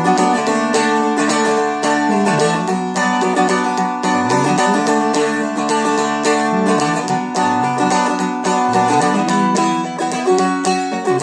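Seagull Merlin M4, a four-string dulcimer-style instrument, strummed steadily through a B minor chord progression with a regular rhythm.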